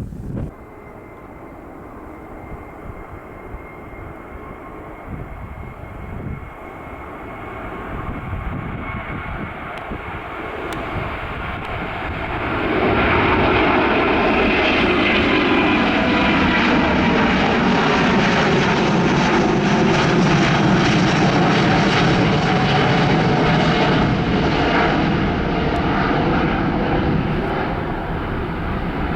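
An airliner's engines grow louder as it approaches, then turn loud and close from about halfway through as it passes, easing slightly near the end. A thin steady whine is heard in the first part.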